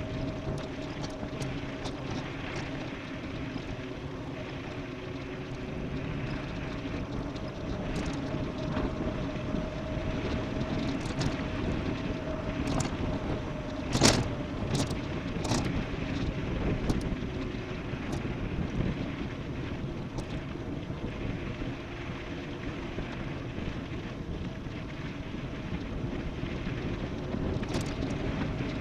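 Wind rushing over the microphone and tyre roar from an e-bike descending at speed, with a steady hum under it. Scattered sharp knocks and rattles from bumps in the surface, the loudest a cluster about fourteen seconds in.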